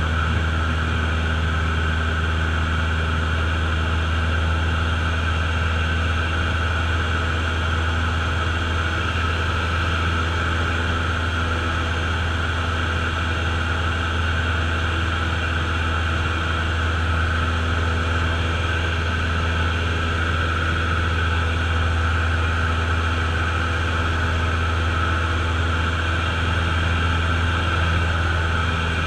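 Cessna light aircraft's piston engine and propeller running steadily in cruise, heard from inside the cabin as a constant low hum with hiss above it.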